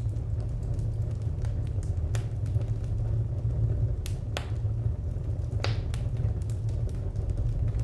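Wood fire crackling: scattered sharp pops and snaps over a steady low rumble, with the loudest snaps about two, four and five and a half seconds in.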